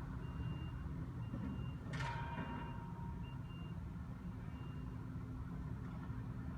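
A heavy machine's reversing alarm beeps about once a second over the steady low rumble of diesel engines, and the beeping stops about five seconds in. A single sharp crash of demolition debris comes about two seconds in.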